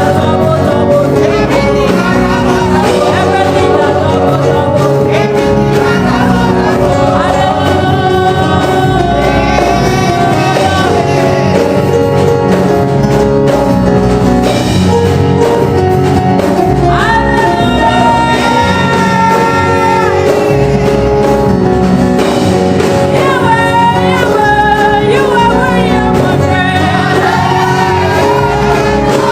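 Live gospel praise music: voices singing over a band with a steady, loud backing.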